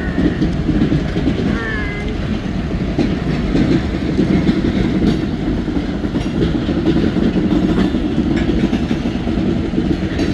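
Loaded side dump railcars of a CSX freight train rolling past at steady speed: a continuous rumble of steel wheels on rail, with scattered clicks as wheels pass over rail joints.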